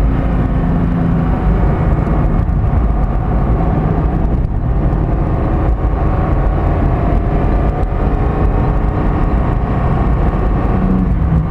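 Porsche 718 Cayman GT4's flat-six engine running at track speed, heard inside the cabin over steady tyre and road rumble. It eases off, then pulls harder again in the second half as the car accelerates.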